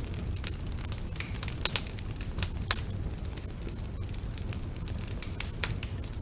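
Wood fire burning in a fireplace: a steady low rumble of flames with frequent sharp crackles and pops, the loudest a couple of seconds in.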